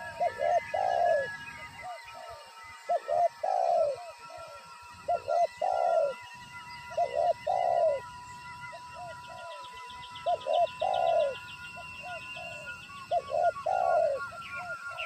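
Spotted dove cooing over and over, each phrase a few short coos ending in a longer one, repeated every two to three seconds. A steady high-pitched tone and, in the middle, a rapid high chirping trill run behind it.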